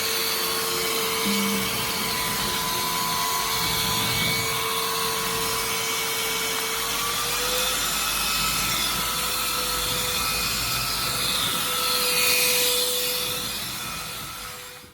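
Devanti cordless stick vacuum running: a steady whine over a rushing hiss, then winding down and stopping as it is switched off near the end.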